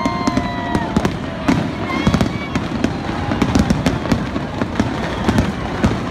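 Aerial fireworks display: many sharp bangs and crackles from shells bursting in quick succession, with steady crowd noise underneath.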